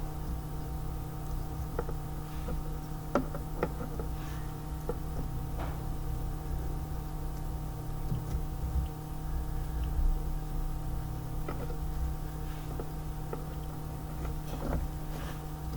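A steady low electrical hum, with scattered light clicks and knocks from small tools or parts being handled.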